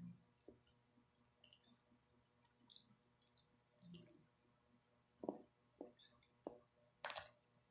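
Quiet, close-up eating sounds: small wet mouth clicks and squishes from chewing spaghetti, with a few sharper clicks in the second half.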